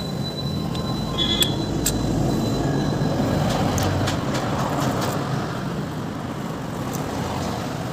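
Steady motor-vehicle running noise with a few sharp clicks and taps, some in the first two seconds and a cluster around the middle.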